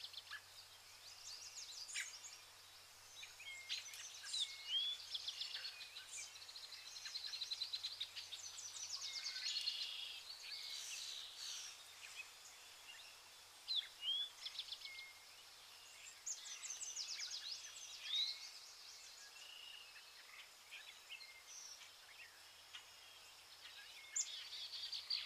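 Birds chirping and calling, with short rising whistles and rapid trills repeating through the whole stretch, over a faint steady background hiss.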